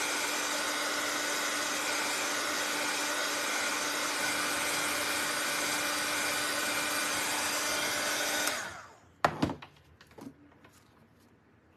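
A small handheld electric blower motor running with a steady whir and hum, switched off about eight and a half seconds in. A sharp knock or two follow as it is set down.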